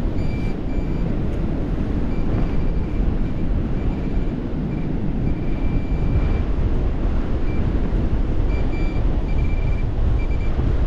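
Gale-force wind buffeting the microphone in a loud, steady rumble, with a metal detector's high-pitched target tone beeping on and off in short pulses and once held for about a second, midway through, as the coil is swept over a buried target.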